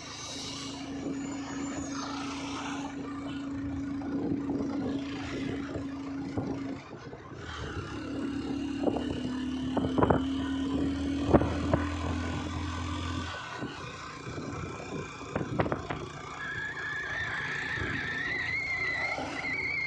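A road vehicle's engine running steadily with road noise, heard on a drive along a hill road, with a few scattered knocks and rattles.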